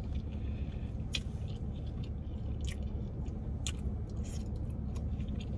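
Close-miked mukbang eating sounds: chewing with scattered wet smacks and clicks of the mouth, over a steady low hum.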